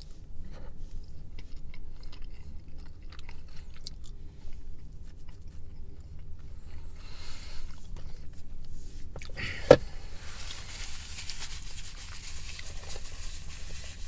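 Chewing a fig bar, with faint small clicks over a steady low room rumble. About ten seconds in comes one sharp knock, the loudest sound, followed by a few seconds of rustling.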